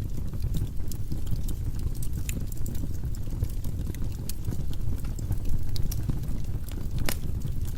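Firewood burning in a fireplace: a steady low rumble of flames with scattered sharp crackles and pops, the loudest pop about seven seconds in.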